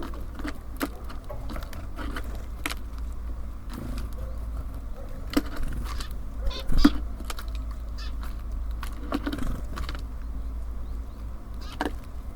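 Birds at a bird feeder: scattered sharp taps and short calls, the loudest taps about five and a half and seven seconds in, over a steady low rumble.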